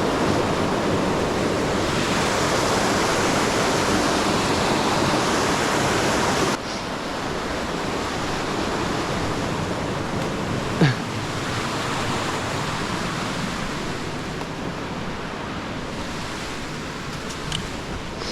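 Steady rush of water from a river waterfall. It drops abruptly to a quieter rush about six and a half seconds in, and there is a single sharp knock about eleven seconds in.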